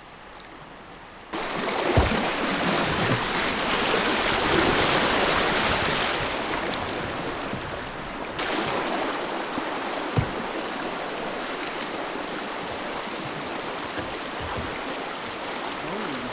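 Rushing river water: a loud, even wash that starts abruptly about a second in, with a couple of brief knocks.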